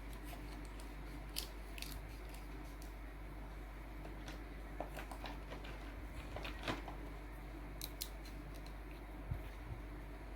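Small, sharp clicks and taps at irregular intervals over a steady low background hum.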